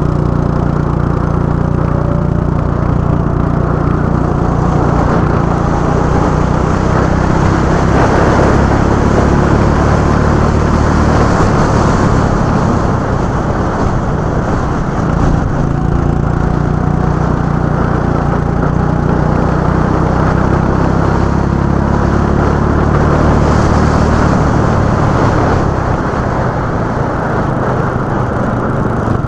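Go-kart engine running continuously on track, its pitch rising and falling as the kart accelerates and eases off.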